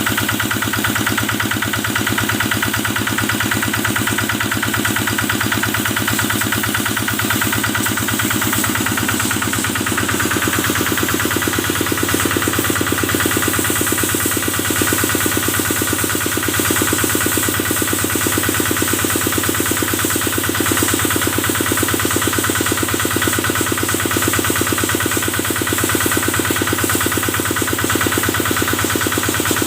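Kubota engine driving a cattle-washing sprayer, running steadily with a fast even pulse, its note shifting slightly about ten seconds in.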